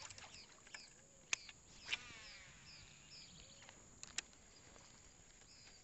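Faint riverside background: a bird repeating short high chirps about twice a second. A few sharp clicks break in, the loudest just over a second in, and there is a brief whir just after two seconds.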